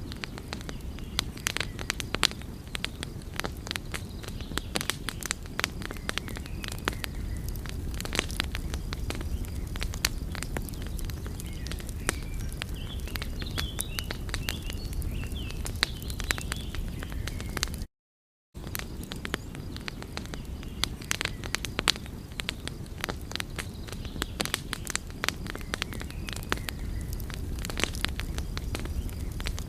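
Wood fire burning, with many sharp crackles and pops over a steady low rumble of flames. The sound cuts out completely for a moment about eighteen seconds in.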